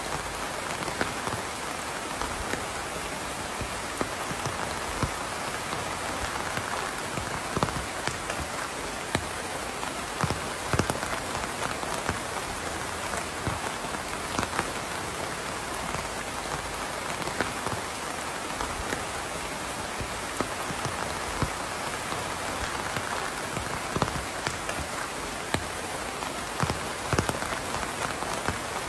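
Steady rain falling, an even hiss with scattered louder individual drops hitting a surface.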